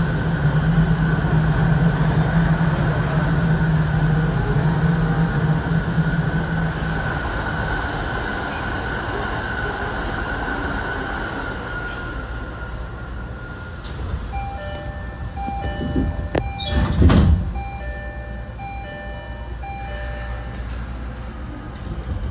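Tokyo Waterfront Area Rapid Transit 70-000 series electric train standing at a station, its onboard equipment humming steadily. From about two-thirds of the way in, a repeating electronic door chime sounds. A loud thud of the doors shutting comes about a second later, while the chime carries on.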